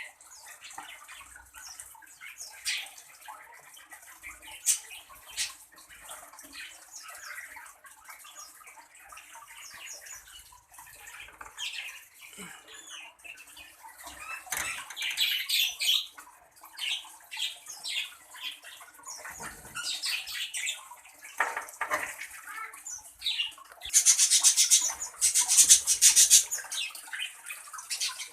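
Birds chirping and squawking in short calls inside an aviary, over a splashing, water-like hiss. A loud stretch of rapid rustling or splashing comes near the end.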